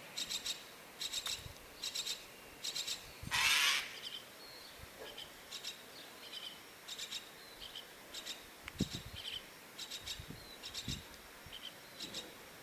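Myna chick giving repeated raspy begging calls in short bursts, with a louder harsh hissing burst about three seconds in and a few soft thumps later on.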